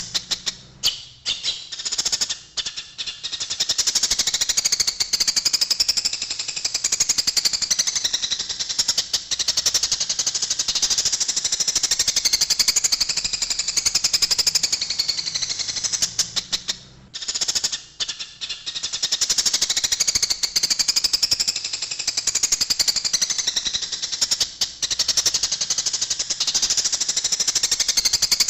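Eurasian tree sparrows chattering in a fast, dense stream of harsh chirps: the agitated calls of sparrows fighting. The chatter briefly thins about a second in and again around the middle.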